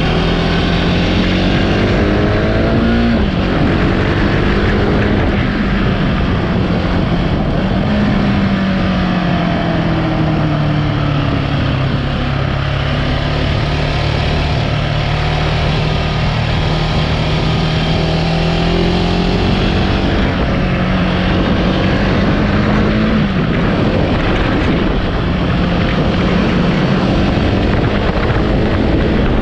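Husqvarna 701 Supermoto's single-cylinder engine running on the move, its note climbing and dropping a few times as it accelerates and shifts, with a long steady cruise in the middle. Steady wind rush runs under it.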